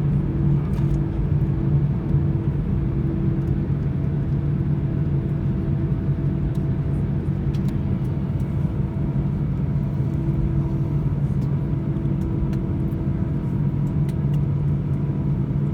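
Cabin noise inside an Airbus A320 taxiing after landing: a steady low rumble with a constant hum from the idling engines and cabin air system.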